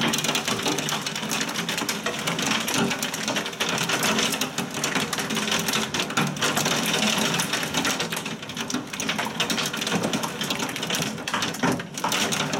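Heavy thunderstorm rain pelting down: a steady, dense clatter of countless small hits on hard surfaces.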